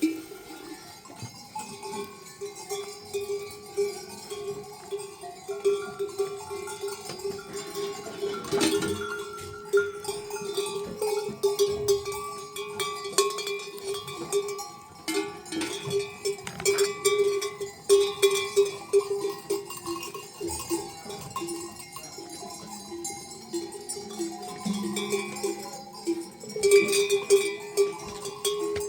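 Many livestock bells on a moving flock of sheep and goats, clanking and jangling irregularly with strikes overlapping.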